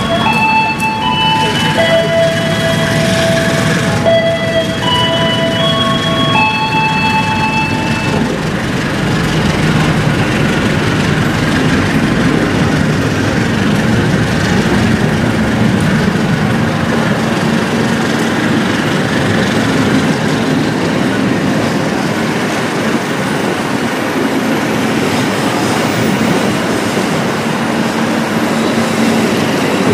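A passenger train of stainless-steel coaches rolling past along the platform, with a steady rumble of wheels on the rails. For the first eight seconds or so, a run of clear tones that step from one pitch to another sounds over it.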